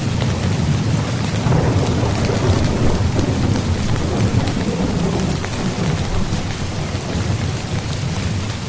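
Steady rain falling on a tent's fabric, many fine drop ticks over a constant hiss, with a deep low rumble of thunder underneath that swells about two seconds in.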